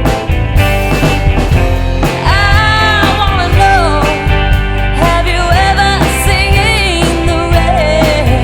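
A rock band playing with a lead singer, the sung lines coming in about two seconds in and again past the middle over a steady beat.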